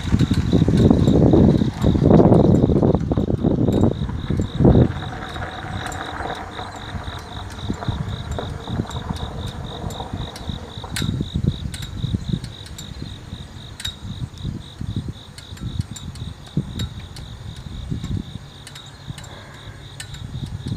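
Wind buffeting the microphone in gusts, loudest over the first four or five seconds, then gentler. Under it runs a steady, fast-pulsing insect chirp, with a few sharp clicks.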